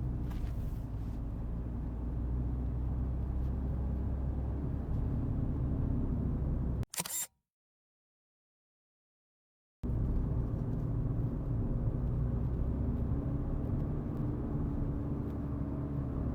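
Steady low rumble of a car driving, heard from inside the cabin. About seven seconds in, a short sharp burst is followed by dead silence for about two and a half seconds, then the rumble resumes.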